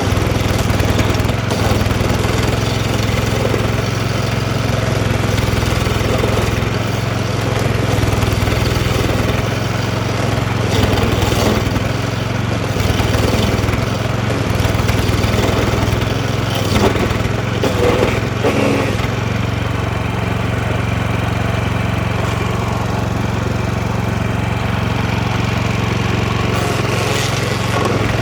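DR stump grinder's small gasoline engine running steadily at working speed, with irregular short bursts of scraping noise as the cutter wheel bites into the stump.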